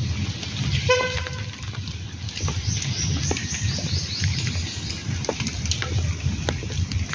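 Monsoon rain falling steadily, with scattered drip clicks and a low rumble. A short horn toot sounds about a second in, and short high bird chirps come in the middle.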